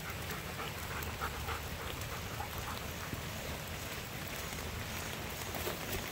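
Steady rain falling on the leaves of dense woodland undergrowth, with scattered drops ticking.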